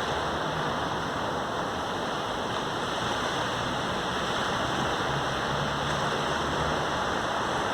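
Sea surf washing onto a sandy beach: a steady, even rush of breaking water with no single wave standing out.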